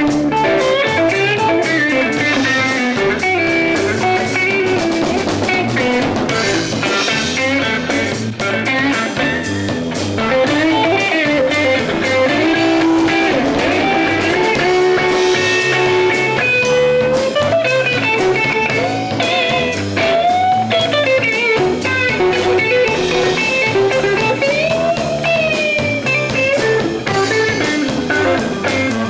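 Live instrumental blues from a band: guitar and drum kit keep a steady groove under a lead melody that bends up and down in pitch.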